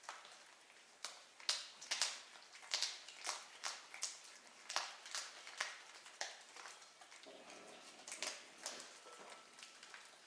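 A small kitten chewing and smacking as it eats, a run of irregular wet clicks, about two or three a second.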